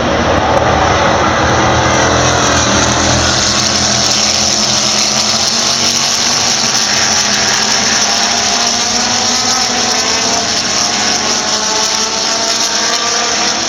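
A pack of pre-1972 sports racing cars at full throttle, many engines overlapping, their pitches sliding up and down as the cars go by.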